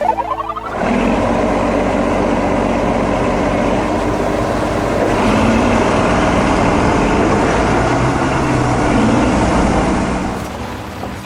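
Heavy vehicle engine running loudly and steadily, with its pitch rising briefly twice, like revs under load; a short rising sweep comes just before it starts.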